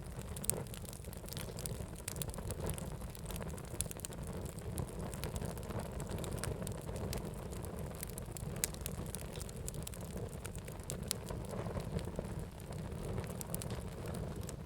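Fire crackling: a steady low rumble of burning with many sharp pops and snaps scattered throughout.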